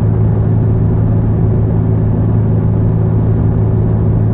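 Steady low drone of a car driving at speed, engine and road noise heard from inside the cabin.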